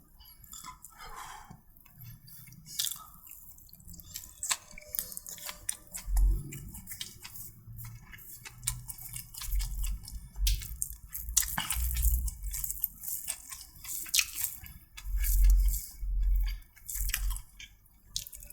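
A person eating close to the microphone: wet chewing and lip-smacking clicks, with irregular dull low thuds.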